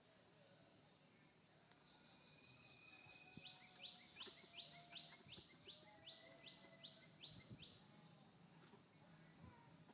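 A bird calling a run of about a dozen short rising notes, roughly three a second, starting a few seconds in and stopping near the end, over a steady high hiss.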